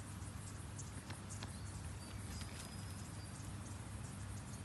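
Quiet outdoor garden ambience: a steady low hum under scattered short, high-pitched ticks and chirps from insects, with a thin high whistle-like tone for about a second near the middle.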